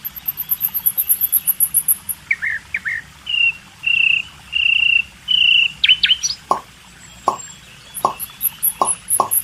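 Small birds chirping and whistling, with fast high-pitched trills at the start and again near the end. From about two-thirds of the way in, a series of short, hollow plop-like knocks comes roughly twice a second.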